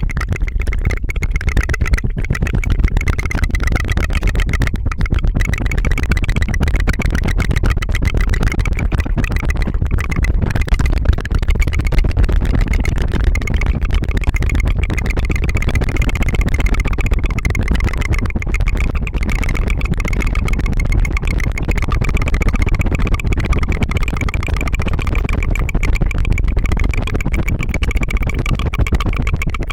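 Continuous rapid tongue fluttering (a tongue trill) made close to an ASMR microphone: a fast, steady 'tu-tu-tu' rattle like a small motor.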